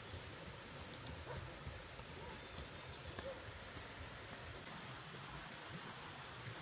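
Faint outdoor background: a steady thin high insect-like trill, soft short chirps repeating about twice a second, and a low rumble underneath.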